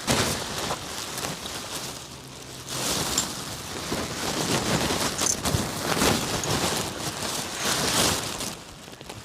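Rain falling, with irregular rustling and knocks over it.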